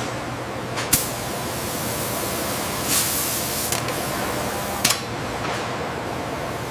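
Steady hissing factory noise, with a few sharp knocks about one, three and five seconds in.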